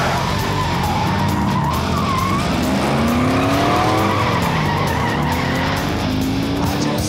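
Pontiac GTO's V8 revving hard as the car accelerates away on a wet road, the engine pitch climbing several times as it goes up through the gears, with tyre squeal in the first couple of seconds.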